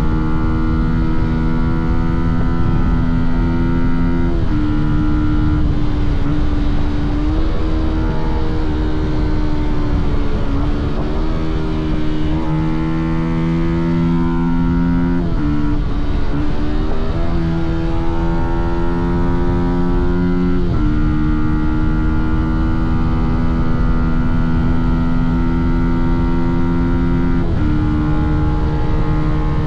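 Fantic Caballero 125's single-cylinder four-stroke engine under way, its pitch holding steady, then stepping down or climbing again several times as the rider shifts and opens or closes the throttle, with a steady low rumble underneath.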